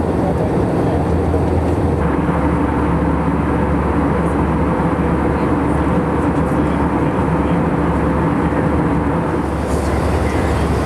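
Airbus A319 cabin noise in flight: a steady, even drone of engines and airflow with a low hum, which shifts slightly about two seconds in.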